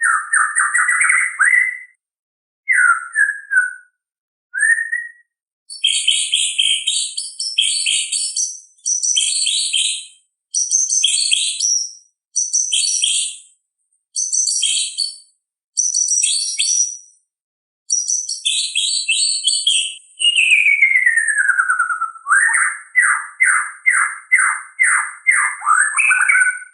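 White-rumped shama (murai batu) singing in separate phrases of high whistles and chattering notes. About twenty seconds in comes one long falling whistle, then a fast run of repeated notes, about three a second.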